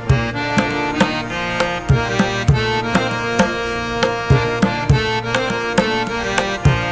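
Background music: an instrumental track with a steady percussive beat under sustained melodic notes.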